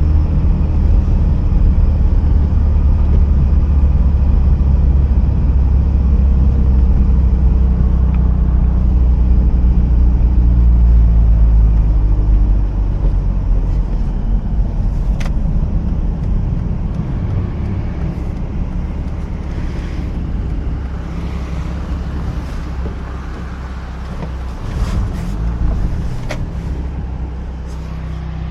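Mazda RX-8's two-rotor rotary engine running steadily with road and tyre noise while driving. About 12 seconds in the engine sound drops and stays lower as the car eases off. A few sharp clicks come later.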